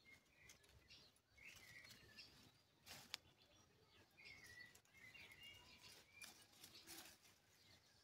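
Faint birdsong of short, scattered chirps, with a couple of sharp clicks and light rustling from hands handling the leaves.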